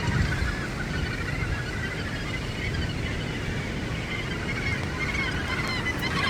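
A colony of Australasian gannets calling, many harsh overlapping calls at once, over a steady low rumble.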